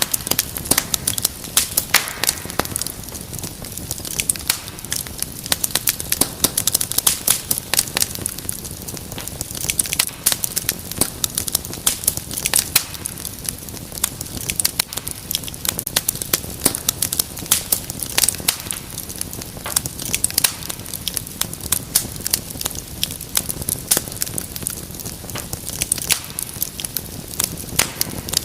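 Wood fire crackling in a fireplace: many small irregular pops and snaps over a soft steady hiss.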